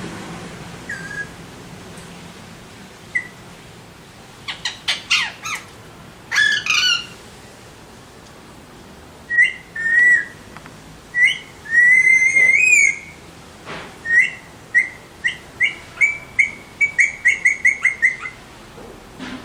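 Alexandrine parakeets calling: a string of short, shrill calls with a couple of longer bending ones midway. Near the end comes a quick run of about a dozen clipped calls.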